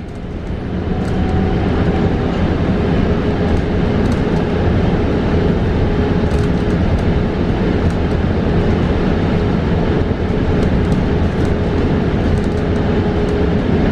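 Cabin noise inside a New Flyer XE40 battery-electric bus on the move: steady road and tyre rumble with a faint steady whine. It grows louder over the first second or two, then holds steady.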